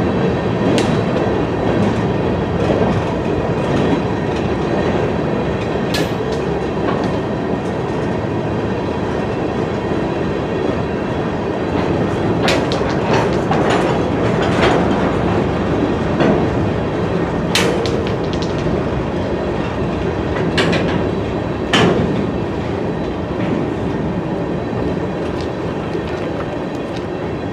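Freight train of open-top hopper cars rolling past close by: a steady rumble of steel wheels on rail with clickety-clack over the joints, and a few sharp clanks here and there.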